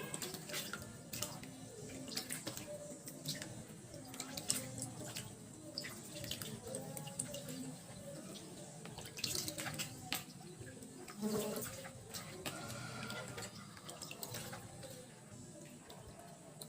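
Water splashing and dripping in a kitchen sink, with scattered light clicks and clinks throughout.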